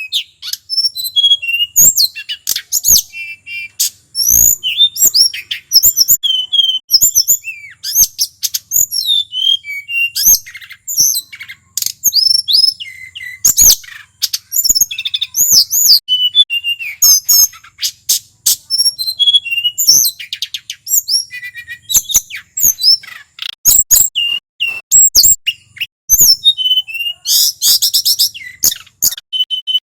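Male hill blue flycatcher singing a continuous run of varied high whistled and warbling phrases in quick succession with only brief gaps, with a fast burst of rapid notes near the end.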